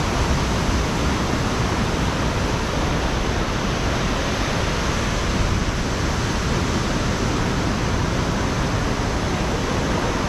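Ocean surf on a beach: a steady rushing wash of breaking waves.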